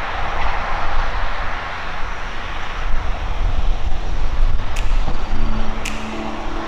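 Farm machinery engine running steadily under load, a loud rumble mixed with noise. Two sharp clicks come near the end, as a steadier engine hum sets in.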